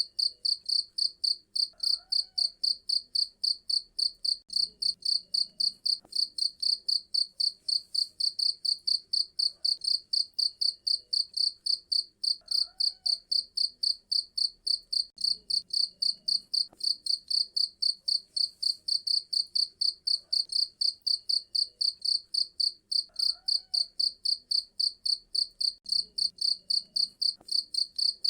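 Cricket chirping in a rapid, steady, evenly spaced rhythm of high-pitched chirps.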